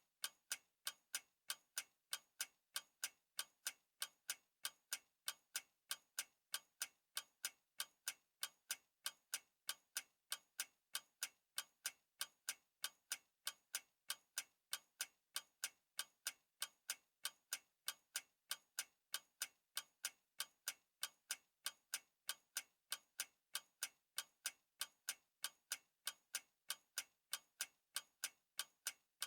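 Clock ticking: sharp, evenly spaced ticks in a steady, unbroken rhythm, several a second.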